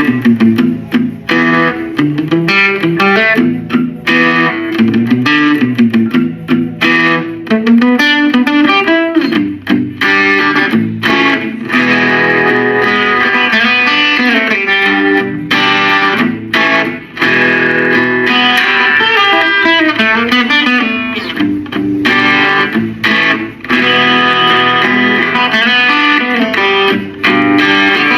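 Electric guitar playing funk metal riffs: fast, choppy notes and chord stabs broken by frequent quick stops.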